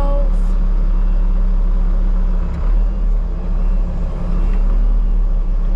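Bobcat skid steer engine running steadily, with a brief dip in its sound about two and a half seconds in.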